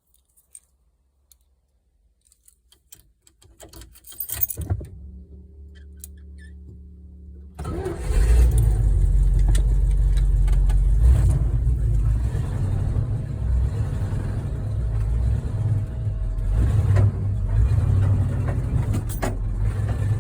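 Keys clink and clatter, then a steady low hum runs for a couple of seconds before a car engine with Holley Sniper throttle-body fuel injection fires about seven and a half seconds in and keeps running with an uneven level. It is a cold start after the engine has sat unused for six months.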